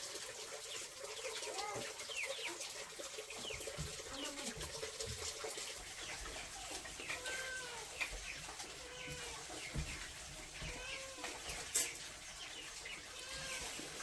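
Farm animal calls: many short, repeated cries and high chirps, with a sharp click near the end.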